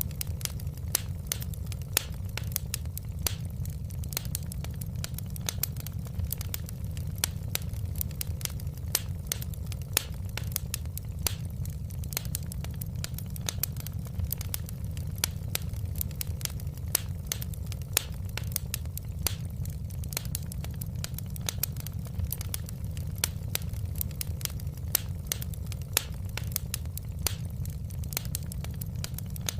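Fire crackling in a fireplace: a constant stream of sharp pops and snaps over a steady low rumble.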